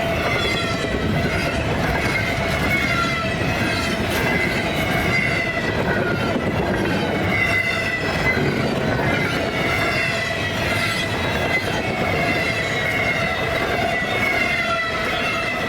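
Freight train cars rolling past in a steady rumble, with a wavering high-pitched squeal from the wheels.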